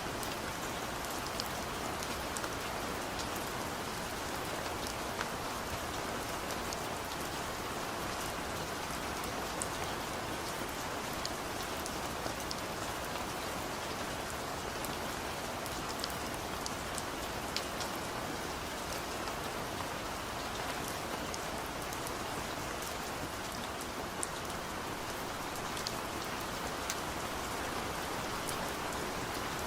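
Steady rain falling, a constant hiss with scattered sharp drop ticks on top.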